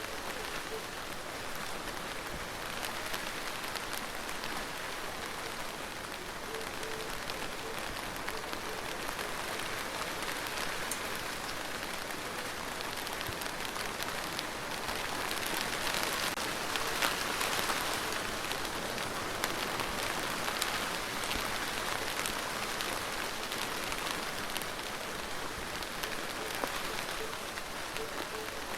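Steady rain falling on a surface, with many scattered individual drops ticking through the hiss; it swells a little heavier in the middle.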